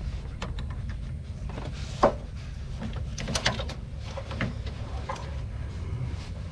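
Hose-clamp pliers clicking and clanking against a radiator hose's spring clamp as it is worked loose. The sound is a scattered run of sharp metal clicks and knocks, loudest about two seconds in, with a quick cluster halfway through, over a steady low hum.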